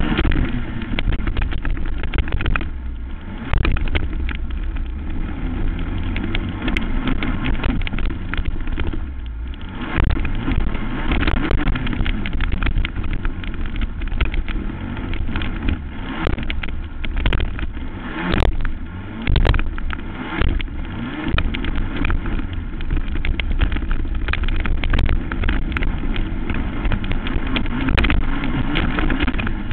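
Racing quad (ATV) engine running hard, its revs rising and falling, with frequent sharp knocks and rattles as it races over the track.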